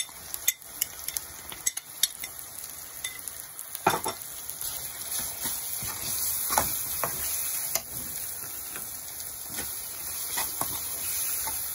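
Tomatoes and spices sizzling in hot oil in a kadhai as they are stirred and fried, with a steady hiss and scattered knocks and scrapes of the stirring utensil against the pan. The loudest knock comes about four seconds in.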